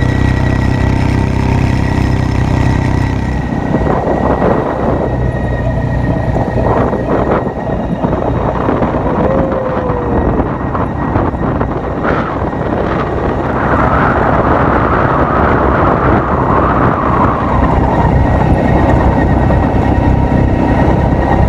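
Quad bike engines running: a steady idle hum for the first few seconds, then a rough, noisy rush as the bikes set off, louder in the second half.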